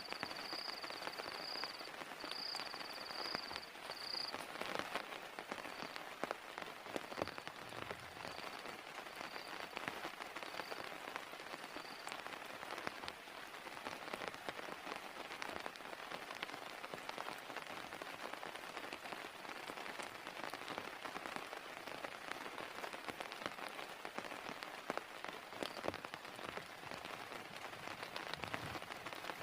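Heavy rain falling steadily, with dense patter of drops striking a surface. A high chirp repeats about once a second and fades out about twelve seconds in.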